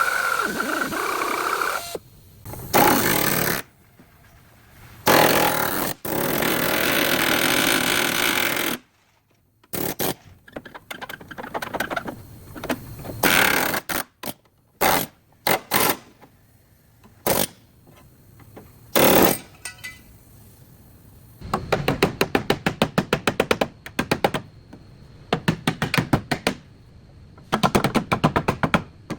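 Bodywork tools at work on a car. A spinning tool winds down, then several long bursts of power-tool noise follow, then scattered knocks. Near the end come runs of rapid hammering strikes, about ten a second.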